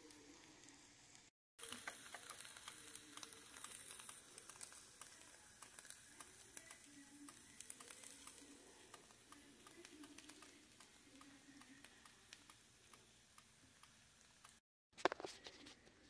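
Faint sizzling and crackling of an omelet burrito, egg on a flour tortilla, frying in a nonstick pan. The sound cuts out abruptly twice, and a short knock comes near the end.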